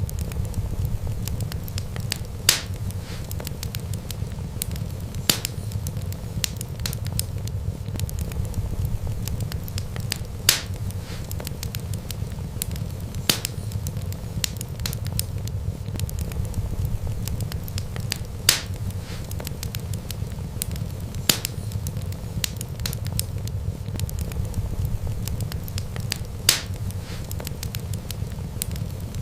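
Wood fire crackling: a steady low rumble of burning with many small crackles and a louder sharp pop every few seconds.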